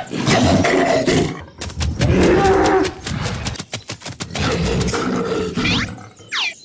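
A loud, rough animal-like roar, broken by a run of rapid sharp clicks about two seconds in and two quick sliding whistle-like tones near the end.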